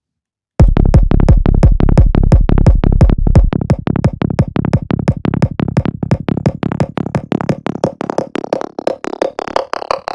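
Electronic drum-and-synth track played through a delay tuned to a 27.24 ms period, the track's root D, so that the delay buffer acts as an oscillator. Every hit rings out as a fierce, metallic pitched tone, a crude Karplus-Strong effect. It starts about half a second in as rapid hits; the deep bass drops out about a third of the way through, and a falling tone sweeps down near the end.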